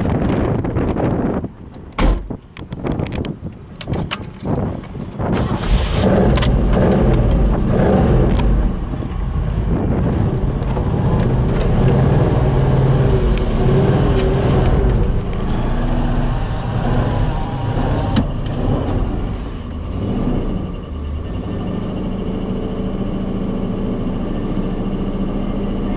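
A few sharp clicks and knocks, then the 1970 Ford Bronco's engine running from about six seconds in, settling to a steadier idle for the last few seconds.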